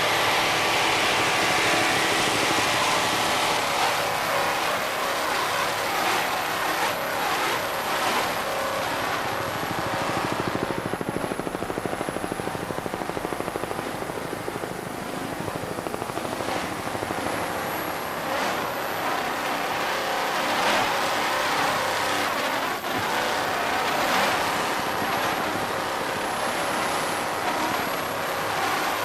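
Offshore race boat with twin Chevrolet inboard engines running at racing speed, a steady, dense engine noise mixed with rushing water and wind, easing a little midway and building again.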